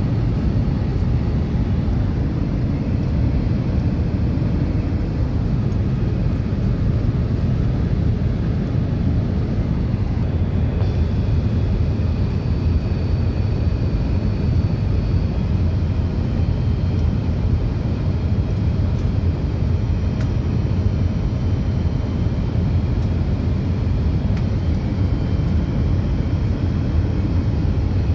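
Steady low roar of an Airbus A330's engines and airflow, heard from inside the passenger cabin. About a third of the way in, faint high whining tones join the rumble.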